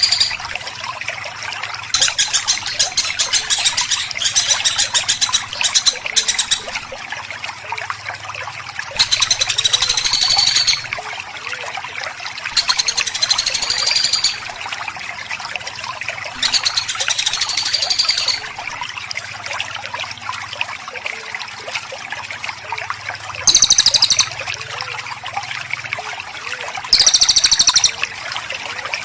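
Songbird song from a masteran training recording: about half a dozen bursts of rapid, tightly packed, harsh trill notes ('tembakan rapat'), each lasting one to four seconds, over a steady background hiss.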